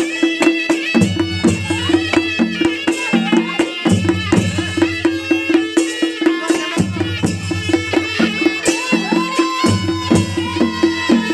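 Nepali naumati baja band playing: a reedy shehnai melody over a held drone tone, with drums and cymbals keeping an even beat.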